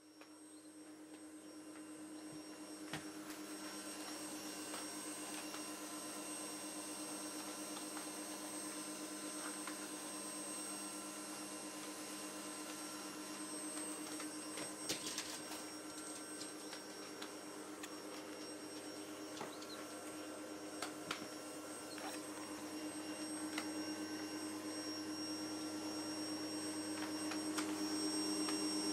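Vacuum cleaner running steadily, used on a dog's coat: a constant motor hum and whine, with a few light knocks now and then.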